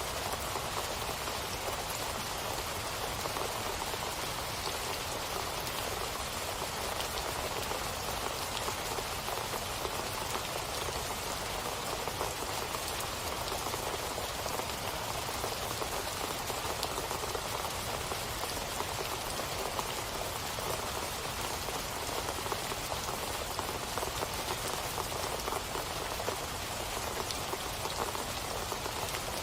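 Steady rain falling on a surface, an even patter of drops with no breaks or louder events.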